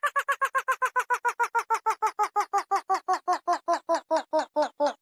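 A short pitched sound repeated in a rapid, even series: about seven per second at first, slowing to about four per second, and dropping steadily in pitch as it slows.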